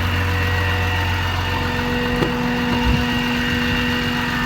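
6.7 Cummins turbo-diesel of a 2008 Dodge Ram 5500 idling steadily, with a constant whine from the engaged PTO running the rear crane functions, which is a little noisy. There is a brief click about two seconds in and a small thump near three seconds.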